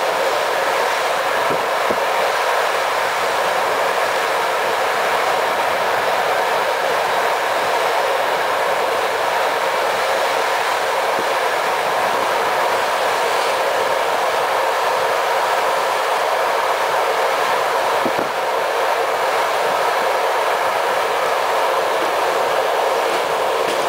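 Passenger train running steadily at speed, heard from inside a coach: an even rumble and hiss of wheels on the rails, with a few faint knocks.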